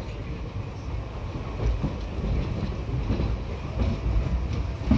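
Indian Railways passenger train running, heard from aboard: a low rumble of wheels on the track with irregular knocks.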